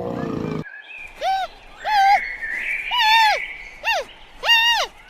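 The end of a big cat's roar, cut off abruptly about half a second in. Then a bird calls in a series of five short, arched whistled notes, roughly one a second.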